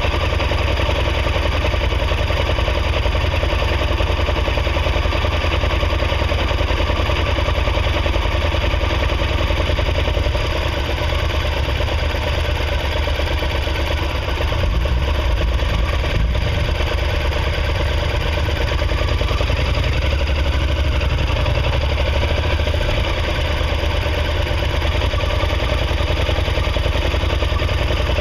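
Motorcycle engine running steadily at low revs while rolling slowly.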